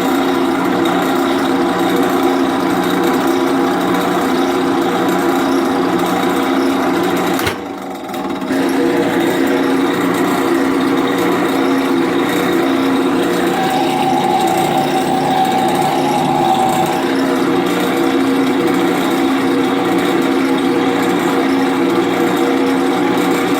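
Drill press motor running steadily while the bit drills a pilot hole into a broken-off screw, in preparation for a screw extractor. The level drops briefly about eight seconds in, and a higher whine joins in for a few seconds midway.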